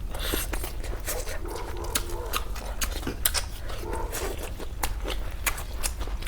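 Close-up eating sounds: chewing with a steady run of sharp, wet mouth clicks and smacks, several a second. A faint low voice hums briefly about two seconds in and again about four seconds in.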